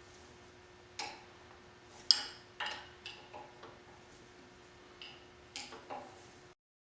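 Metal clinks and clicks of an open-end wrench and bolts against the intercooler manifold of an Ingersoll Rand 2545 air compressor pump, irregular and spaced out, the loudest just after two seconds in, over a faint steady hum. The sound cuts off suddenly near the end.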